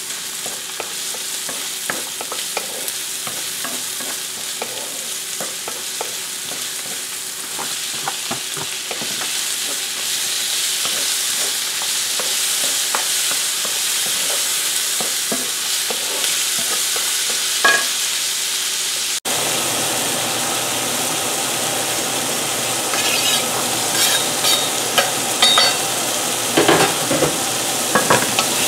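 Chopped onions and tomatoes sizzling in hot oil in a nonstick pan, stirred with a wooden spatula that scrapes and clicks against the pan. About two-thirds of the way through there is a sudden break, after which the sizzle is louder, with sharper taps of the spatula near the end.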